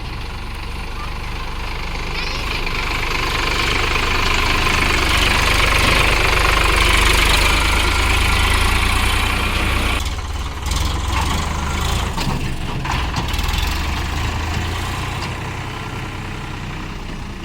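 Diesel engine of a tractor or combine harvester running steadily, growing louder toward the middle and then fading. There is a spell of clattering knocks about ten to thirteen seconds in.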